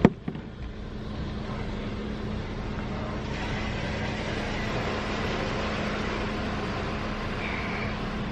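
Automatic car wash running, heard from inside the car's cabin: a steady rush of spray and machinery over a constant low hum, growing fuller about three seconds in. A single sharp click at the very start.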